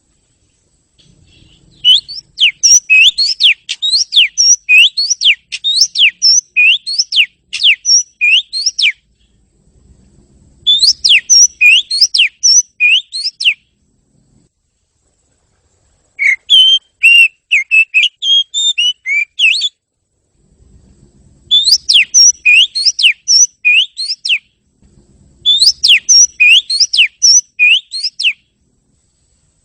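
Oriental magpie-robin (kacer) singing: five bouts of rapid, repeated sweeping whistles, each a few seconds long, with short pauses between them.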